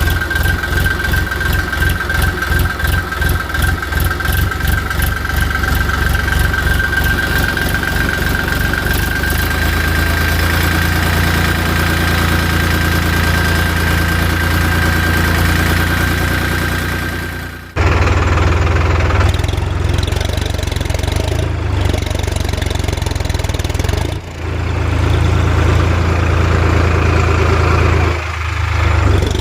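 Tractor engine sound chugging at about four beats a second with a steady high whine over it. It breaks off abruptly about two-thirds of the way through and resumes as a steadier engine drone, dipping briefly twice.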